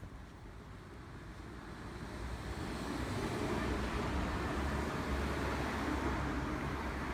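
A steady rushing noise with a low rumble, swelling over the first few seconds and then holding.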